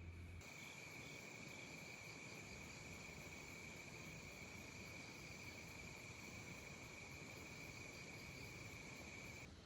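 Faint, steady chorus of insects calling in one continuous high drone. It cuts in just after the start and cuts off abruptly just before the end.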